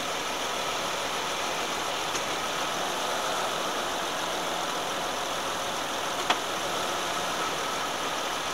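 A 2007 Saturn Vue's 3.5-litre V6 idles steadily after a transmission fluid refill. There is a single sharp click about six seconds in.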